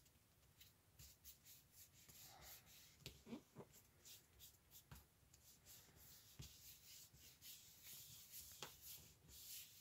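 Faint rustling, rubbing and light taps of paper pieces being handled and pressed down on a work surface, with many small, irregular ticks.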